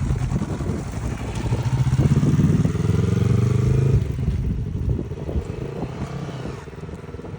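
Yamaha YZF-R3's parallel-twin engine revving as a learner rider pulls away from a stop. The engine note swells and rises slightly about two seconds in. It drops suddenly after about four seconds and then fades.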